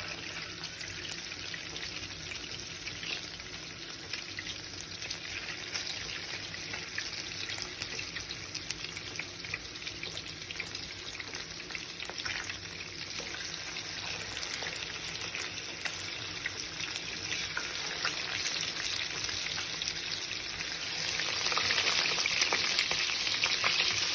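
Steady hiss of running or falling water, growing louder about 21 seconds in.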